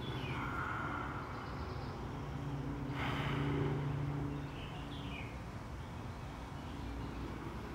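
Garden ambience: a few short bird chirps over a steady low hum that swells slightly around the middle, with a brief sharp noise about three seconds in.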